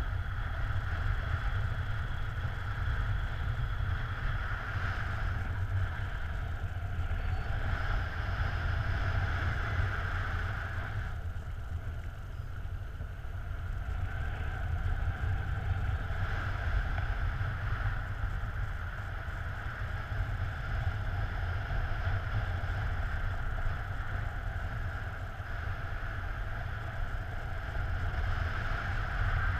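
Wind rushing over the microphone during an unpowered paraglider flight: a steady low rumble with a hiss, easing a little about twelve seconds in.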